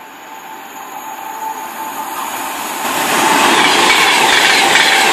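A train approaching and running through on the main line, growing steadily louder until about three seconds in, then a loud steady rush of wheels on rail with a thin steady whine.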